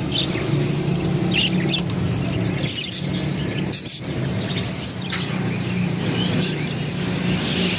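Many caged birds chirping in short, high calls scattered throughout, over a steady low hum.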